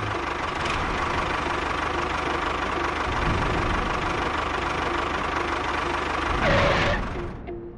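Small motor running steadily with an even mechanical rhythm. It gets louder for a moment near the end, then stops.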